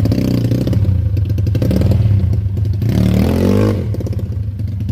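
Dirt bike engine running hard, then revved up and down in quick blips about three seconds in.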